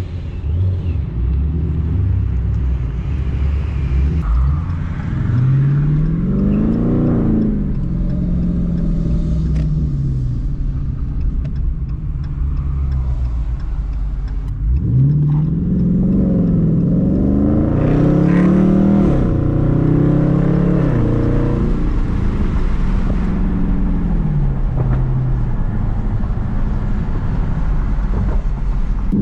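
Dodge Charger Scat Pack's V8 on the road, accelerating several times, its pitch climbing and dropping back about five seconds in and twice more in the second half, over a steady low rumble.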